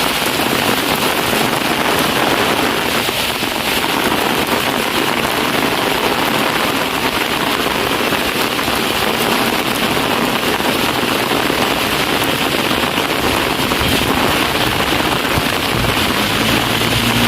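Heavy rain pouring steadily, a dense even hiss of rain striking the ground and running water. A faint low hum comes in near the end.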